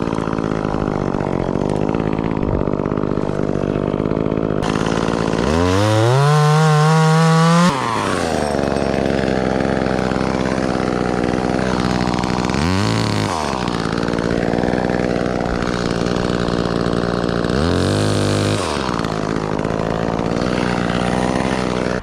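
Gas chainsaw idling, revved to full throttle for about two seconds near the start, then blipped up briefly twice more.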